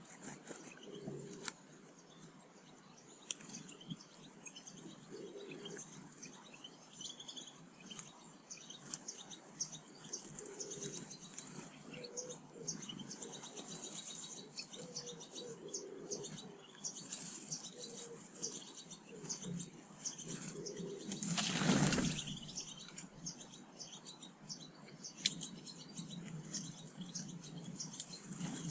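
Small garden birds at a feeder, giving many short high chirps and ticks. About three-quarters of the way in there is one brief loud rush of noise, which may be wings.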